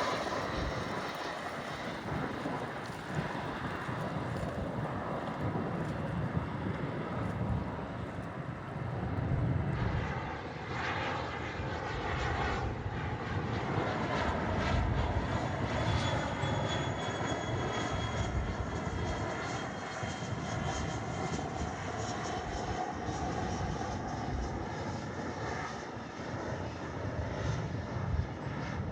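Jet engines of arriving aircraft passing: first an Airbus A320 airliner, then from about ten seconds in a Cessna Citation Sovereign business jet, its high turbine whine sliding slowly down in pitch as it goes by.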